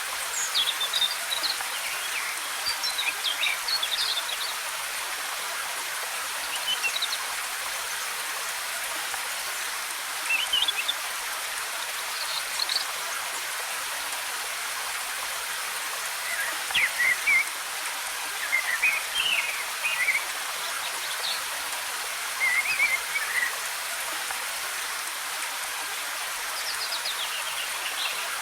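Steady rushing hiss of cascading waterfall water, with small birds chirping in short scattered clusters of quick notes over it.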